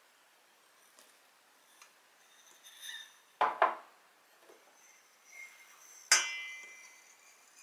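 Kitchenware being handled: a few light clinks, two sharp knocks about three and a half seconds in, and a louder clink with a brief ring about six seconds in.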